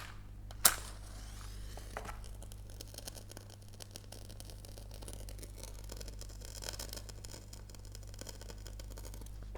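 Tea-light candles being lit: one sharp click a little under a second in, then a faint, steady, crackly hiss.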